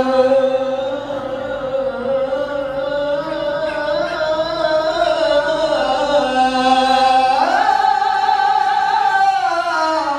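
A male qari's melodic Qur'an recitation: one long melismatic phrase held on a single breath, wavering on a sustained note before leaping up in pitch about three-quarters of the way through, holding, then sliding back down.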